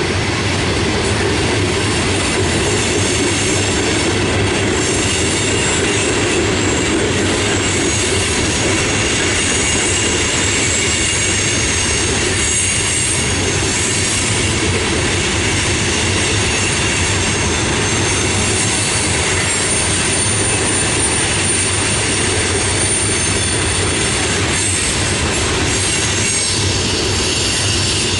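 Loaded coal hopper cars of a CSX freight train rolling past: a steady rumble of steel wheels on the rails, with thin, high wheel squeal coming and going over it.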